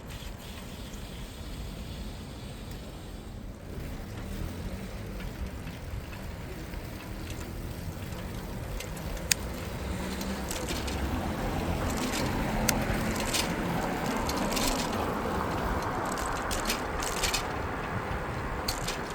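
Bicycle riding along a city street: steady tyre and wind noise with a low rumble, growing louder about halfway through, and scattered sharp clicks and rattles.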